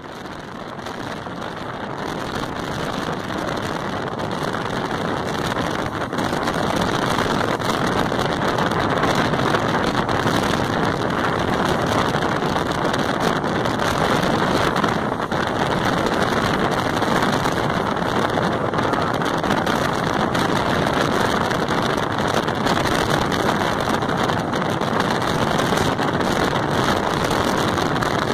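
Steady rush of wind and wheel-on-rail noise from a passenger train coach running at high speed, heard from its open doorway with wind buffeting the microphone. It fades in over the first few seconds.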